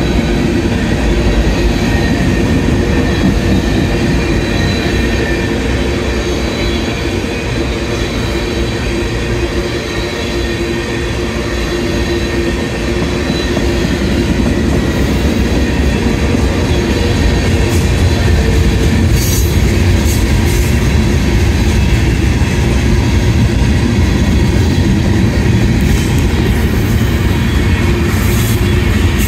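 Freight cars rolling past close by: a steady rumble of steel wheels on rail with a thin high wheel squeal over it. A few sharp clicks come about two-thirds of the way through and near the end.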